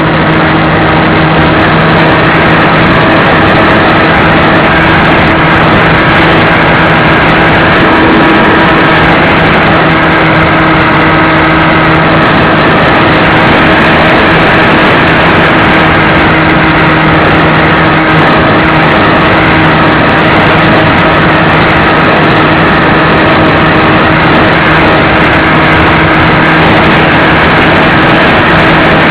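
Radio-controlled airplane's motor running loud and steady at an unchanging pitch, mixed with heavy wind rush, as picked up by a camera carried on the plane in flight.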